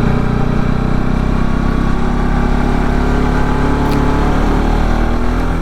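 Bajaj Pulsar RS200's single-cylinder engine running steadily at low speed, with the pitch holding level.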